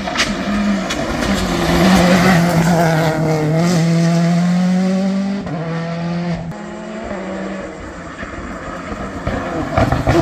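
Modern rally car engine running hard on a special stage, its pitch climbing and dropping several times with the gear changes; loudest about two seconds in, it fades through the middle and rises loudly again near the end.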